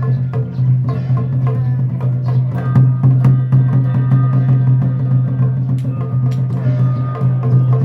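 Taoist xiaofa ritual music: quick, dense percussion of drums and wood-block-like clacks over continuous held tones.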